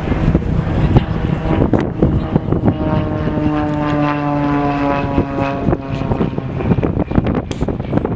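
Propeller-driven airplane flying past, its engine and propeller note swelling through the middle and dropping slightly in pitch as it goes by. Wind buffets the microphone throughout.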